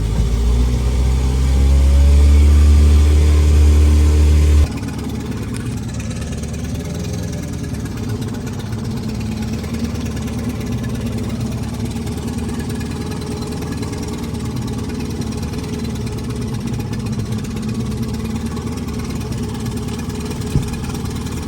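A small boat motor running steadily at low speed. For the first four to five seconds a louder, deeper hum rising slightly in pitch is heard, then it cuts off suddenly, leaving the steadier, quieter running; a single short click comes near the end.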